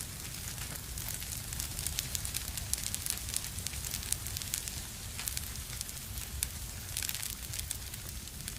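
Fire burning in a fireplace, crackling with frequent sharp pops over a low steady rumble.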